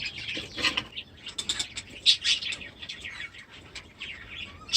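Budgerigars chirping: many short, scattered high chirps and ticks.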